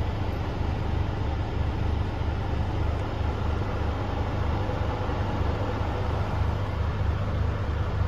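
Scania diesel engine running steadily at a constant low speed, with a deep, even throb.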